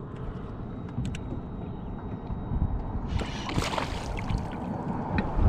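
Water sloshing and lapping against a kayak hull, with a few light clicks and knocks of handling gear about a second in.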